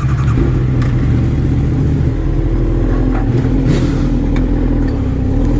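Motorcycle engine running under way, its note shifting about two seconds in.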